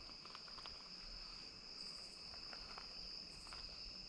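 Steady chorus of crickets, one constant high trill, with a few faint light clicks over it.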